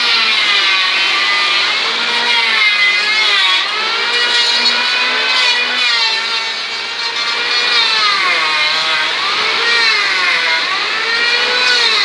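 Strong wind howling in gusts, its whistling tone sliding up and down again and again.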